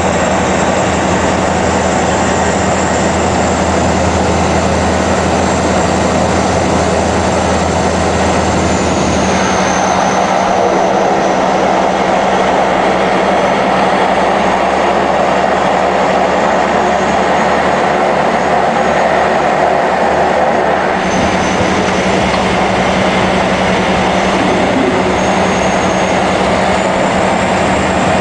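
Cessna 208B Grand Caravan's Pratt & Whitney Canada PT6A turboprop and propeller running steadily in flight, heard from inside the cockpit as a loud, even drone with a low hum. A high turbine whine drops slightly about nine seconds in and rises again near the end, while the deepest part of the hum fades around the same point and comes back about two-thirds of the way through.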